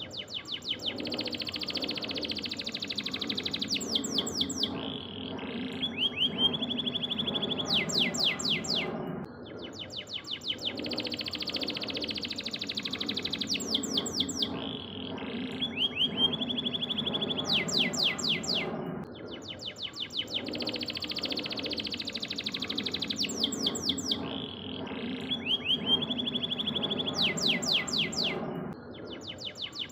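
Domestic canary singing a masteran training song: fast trills and rolls with a held whistled note, over a steady low hum. The same song passage repeats about every nine and a half seconds, as a looped recording.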